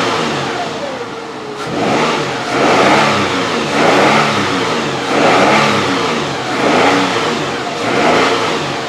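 2009 Nissan Frontier's 4.0-liter V6 engine revved up and let down again about five times, a rise and fall in pitch roughly every second and a half. The engine has a misfire, counted on cylinders 4 and 6 at these higher revs.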